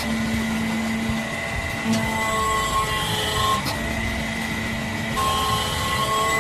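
Hydraulic press running: a steady mechanical hum with several held tones over a constant noise.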